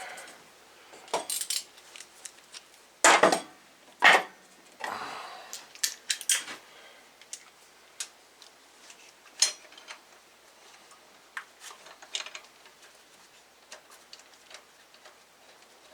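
Metal hand tools and loose metal parts clinking and clanking. There are two loud clanks about three and four seconds in, then scattered lighter ticks.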